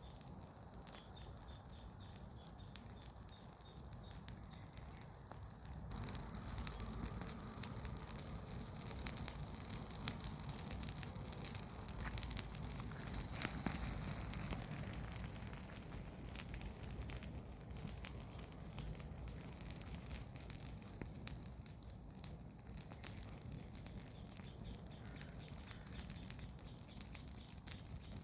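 Garden bonfire of garden waste burning, with frequent small crackles and pops. A low rushing sound comes up about six seconds in and eases off again after about twenty seconds.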